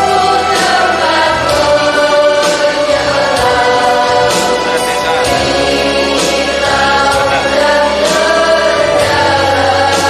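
Mixed choir singing a sustained, flowing melody in several parts over instrumental accompaniment.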